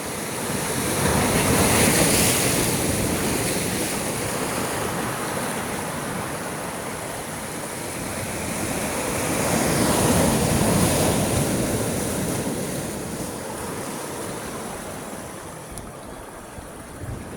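Sea waves breaking in two rushing surges, the first peaking about two seconds in and the second about ten seconds in, each easing off slowly afterwards.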